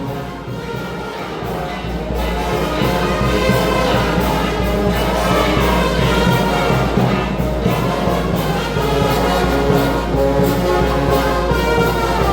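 Brass band playing, trumpets and trombones holding sustained chords; the music grows louder about two seconds in.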